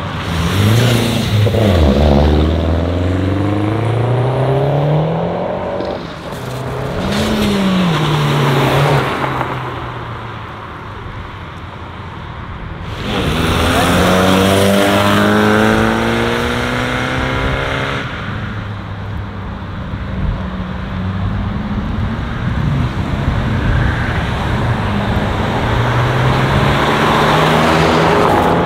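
Several cars pulling away one after another, their engines revving and climbing in pitch as they accelerate past. About seven seconds in there is a short rev blip, and the loudest acceleration starts a little before the midpoint.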